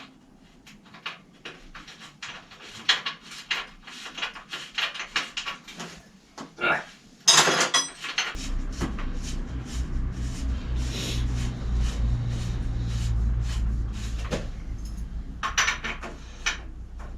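Metal tools and parts clicking and knocking as they are handled, with one louder knock about seven seconds in. A steady low hum starts about eight seconds in and carries on beneath further knocks.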